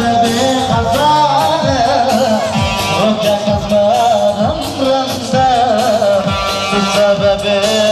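Middle Eastern-style folk band music: a heavily ornamented, wavering melody over a steady, regular drum beat.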